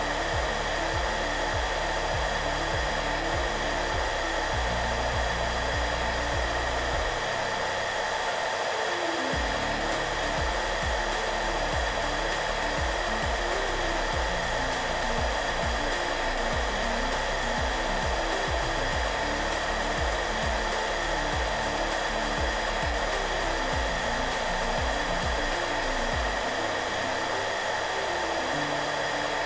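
Hair dryer running steadily, a constant blowing noise with a fixed motor whine. Soft background music plays under it, with low notes that change every fraction of a second.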